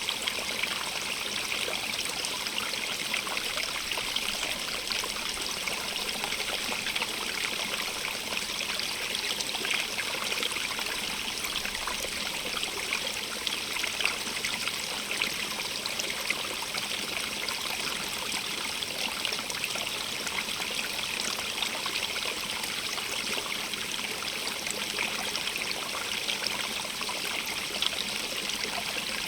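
Stream of running water babbling over stones, a steady bright hiss with small splashes and trickles throughout.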